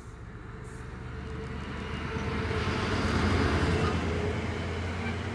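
Class 66 diesel locomotive, a two-stroke V12, running under power as it approaches and passes hauling a container freight train, growing louder to a peak about three seconds in. The wagons then rumble steadily past on the rails.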